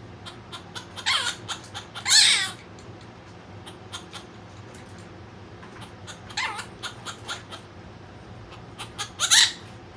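Birds calling: four loud, harsh calls, the loudest about two seconds in, among many short chirps.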